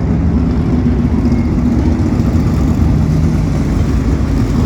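A field of asphalt sprint car engines running together at pace speed, a loud steady rumble, as the cars weave to scrub their tires before the start.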